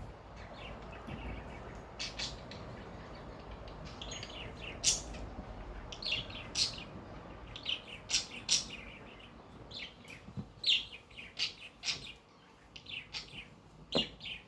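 Cockatiel chirping in a scattered series of short, high calls, over the steady whoosh of an electric fan.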